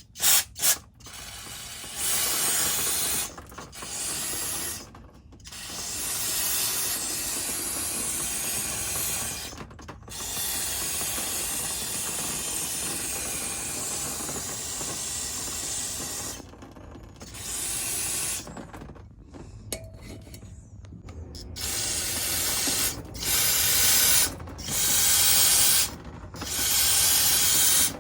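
Aerosol can of degreaser spraying in long hissing bursts with brief pauses between them, then a run of shorter squirts in the last few seconds.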